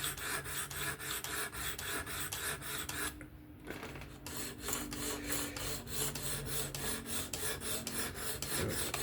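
Sharpening stone on a Work Sharp Professional fixed-angle sharpener rubbing across the S30V steel edge of a Spyderco Kapara knife in quick, regular strokes, several a second, with a brief pause about three seconds in. The strokes are setting the bevel at one end of the blade.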